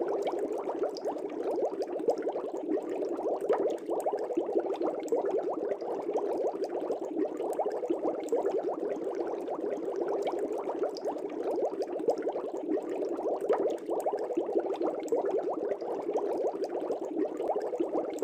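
Aquarium fish tank bubbling: a steady, dense stream of air bubbles rising and breaking in the water, many small rapid blips with no letup.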